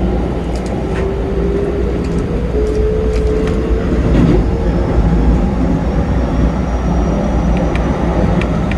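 Keikyu 2100 series electric train pulling away and gathering speed. A motor whine rises slowly in pitch over the steady low rumble of the running gear, with a few scattered sharp clicks.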